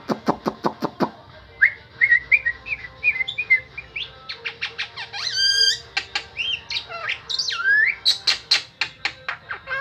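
Starling (jalak) singing a varied song: a quick run of clicks at the start, then a string of whistled notes gliding up and down, a buzzy harsh note near the middle, and more clicks and swooping whistles toward the end.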